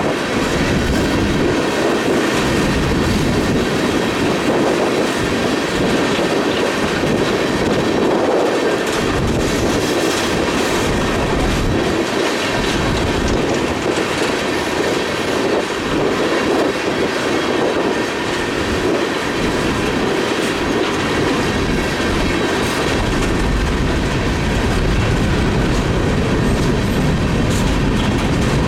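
Freight train rolling past at trackside: a steady rumble and clatter of railcar wheels over the rails that carries on unbroken.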